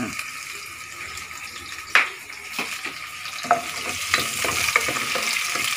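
Chopped garlic and onion sizzling steadily in hot oil in a pot, with a spatula stirring and knocking against the pot a few times.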